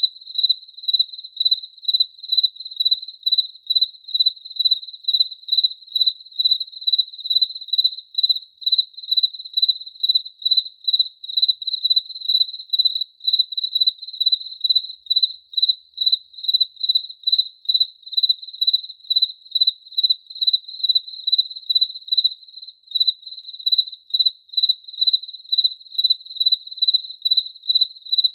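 Cricket chirping steadily: one high, clear chirp repeated evenly about twice a second.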